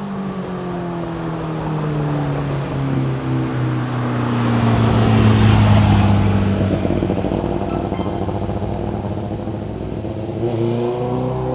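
Sport motorcycle's exhaust as the bike passes close by: the engine note falls steadily, loudest about halfway through, then rises again near the end as the throttle opens.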